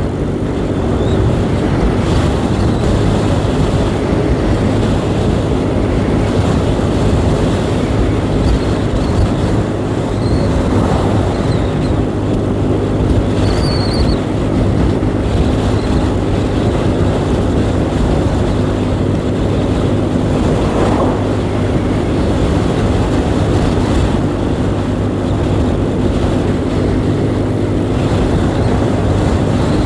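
A 125 cc motorcycle's engine running at a steady cruising speed, with wind and road noise over it.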